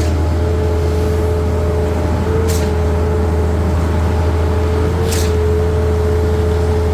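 Concrete pump truck's diesel engine running steadily under load, with a short hiss that repeats about every two and a half seconds as the pump cycles.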